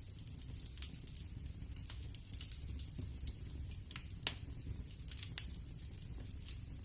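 Wood fire crackling in a fireplace: irregular sharp pops and snaps over a low steady rumble of the flames, with one louder pop about five seconds in.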